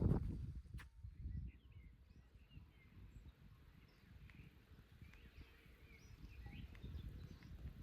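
Faint forest birdsong: scattered short, high chirps and calls over a low background rumble. A louder low rumble fades out in the first second, and there is a single click just before the birds begin.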